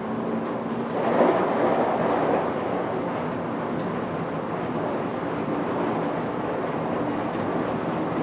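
Airport people-mover train running between stations, heard from inside the car: a steady rolling rumble with a faint hum, swelling louder about a second in before settling back.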